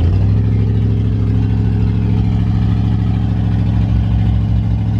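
A truck engine running at a steady speed, with no rise or fall in pitch.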